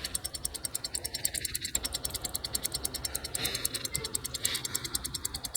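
Rolex cal. 1401 wristwatch movement ticking in rapid, even beats, picked up close. The balance is running poorly: the repairer believes its balance staff is broken.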